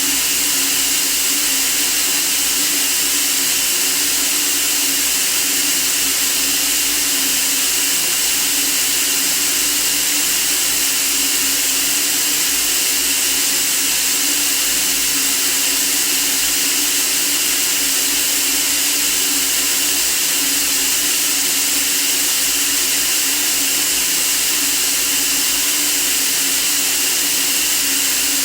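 Steady white noise for sleep: an even, unchanging hiss, strongest in the treble, with a faint steady hum band lower down.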